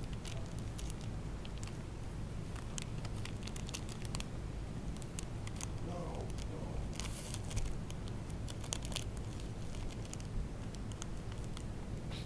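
A cat biting and clawing at a package, with irregular crinkling and tearing of the packaging and a run of quick scratchy clicks about seven to nine seconds in.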